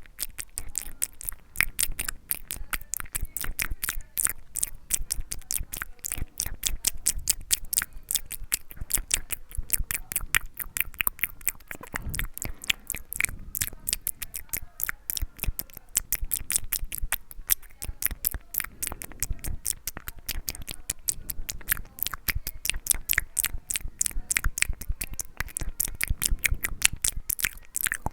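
Close-miked ASMR mouth sounds: rapid wet clicks and smacks of the tongue and lips, several a second, keeping up without a pause.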